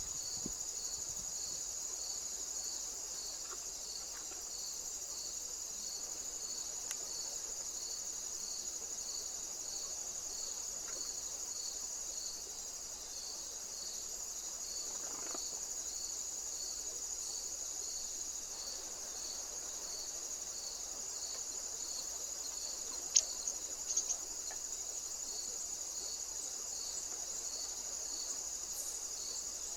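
Crickets singing: a steady high trill with a second insect chirping about twice a second underneath it. Two or three short sharp clicks come about three quarters of the way through.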